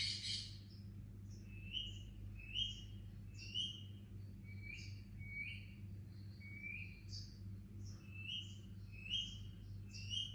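Baby Indian ringneck parakeet chirping: short, high, repeated calls about once a second, with a louder, harsher call right at the start. A steady low electrical hum runs underneath.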